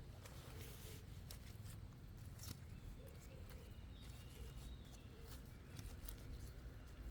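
Faint background ambience with a low steady hum and scattered light clicks and rustles, like small objects being handled.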